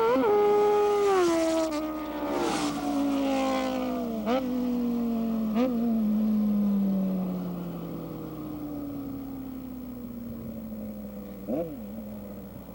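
Motorcycle engine at full throttle, pulling away in a drag race. Its note slides steadily lower and fades as the bike moves off, broken by a few brief blips.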